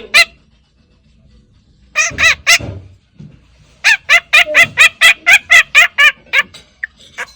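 A pet bird giving quick, repeated clucking calls, about five a second, in two bouts: three calls about two seconds in, then a run of about a dozen from about four seconds in.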